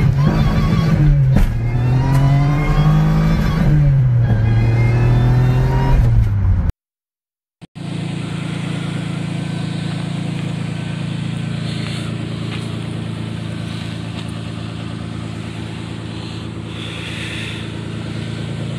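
Toyota sedan's 1MZ-FE V6 engine revving as the car accelerates while driving, its pitch rising and falling. After a brief cut to silence about seven seconds in, the engine idles steadily.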